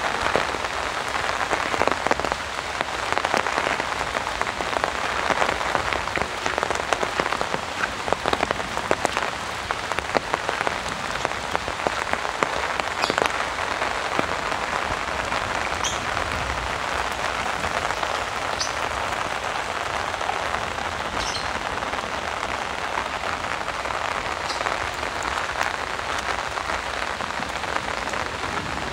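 Heavy rain falling steadily, drops pattering sharply on an umbrella overhead.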